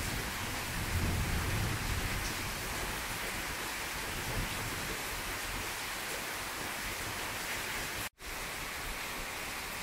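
Steady rain falling, with a low rumble of distant thunder about a second in. The sound drops out for an instant about eight seconds in.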